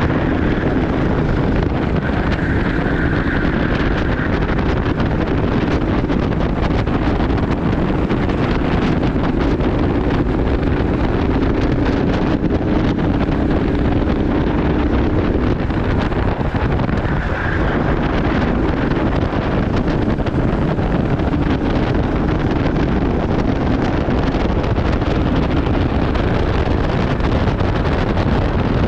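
Go-kart engine running steadily at racing speed, heard onboard under heavy wind noise on the microphone, its pitch shifting a little.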